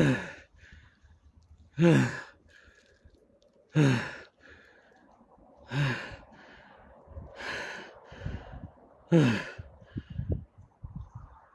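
A person's voice giving short, breathy, falling-pitched exhalations like heavy sighs or groans, six of them about two seconds apart.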